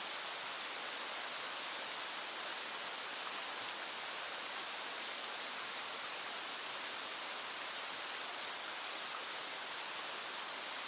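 Steady, even rushing of a small stream, mixed with the hiss of rain falling.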